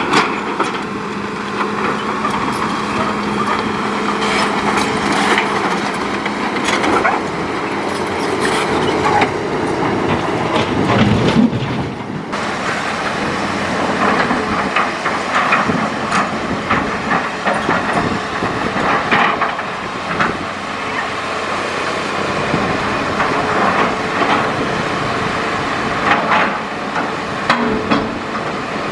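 Hitachi Zaxis excavator working, its diesel engine running while the bucket and arm knock and scrape against rock and sand in a riverbed, with repeated clanks throughout.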